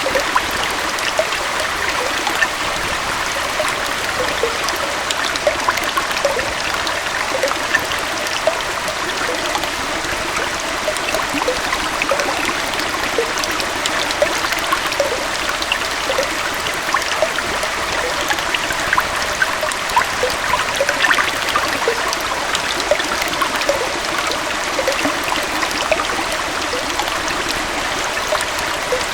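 Small waterfall and stream: steady rushing water with many small splashes and trickles over it.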